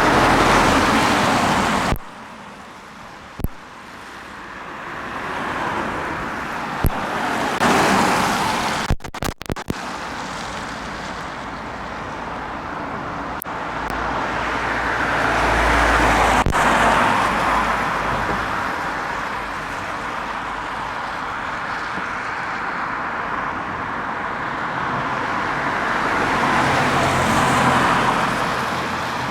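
Road traffic: vehicles passing, their tyre and engine noise swelling and fading several times, with sudden cuts about two and nine seconds in.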